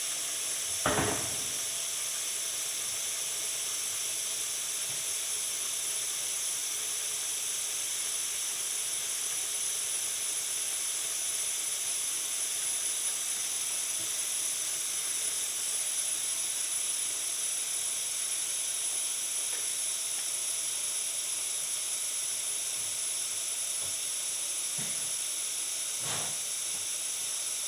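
Water running steadily from a kitchen tap into the sink, an even hiss, with a short knock about a second in and another near the end.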